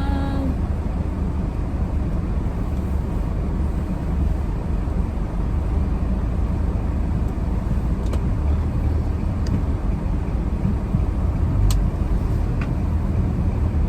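Steady low rumble of a car's cabin while driving or idling on a snowy road, with a few faint clicks in the second half.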